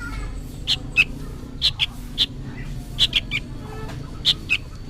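Juvenile sooty-headed bulbul giving short, sharp, high calls, mostly in quick pairs or threes, about ten in all. These are noisy fledgling calls, which the uploader guesses are calls for its mother.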